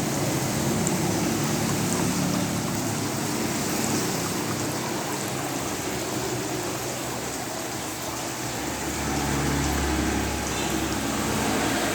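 Water falling and splashing steadily in a small home-made waterfall fountain, with a low hum underneath that grows louder for a couple of seconds near the end.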